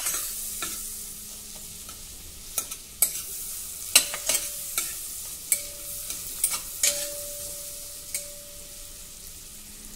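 Sliced onion and garlic sizzling in butter in a pressure cooker, stirred with a metal spatula that scrapes and clicks against the pot about a dozen times.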